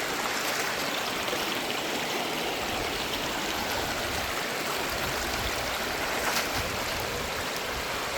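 Stream water rushing steadily, an even wash of sound with no break.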